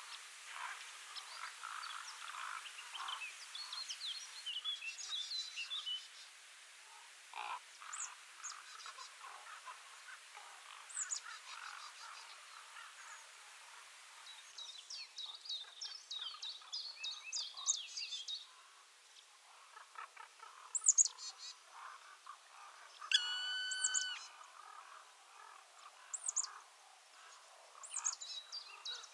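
Small birds chirping and singing, many short high calls and trills overlapping, with one louder, longer held call about 23 seconds in.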